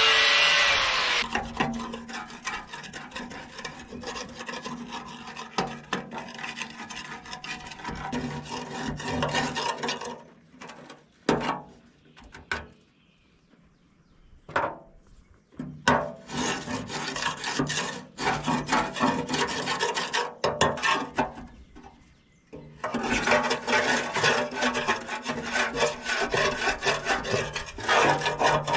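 A spinning tool winds down in the first second, then rapid, repeated scrubbing strokes on a metal backhoe part. The strokes break off about ten seconds in, leaving a few separate knocks and scrapes, and start up again densely near the end.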